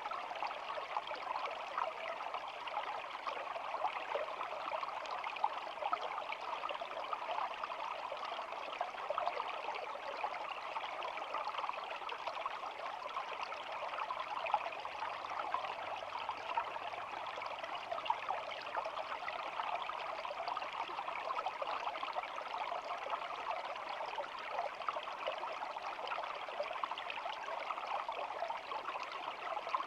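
Shallow stream babbling steadily over stones, a constant rush of water with fine trickling splashes.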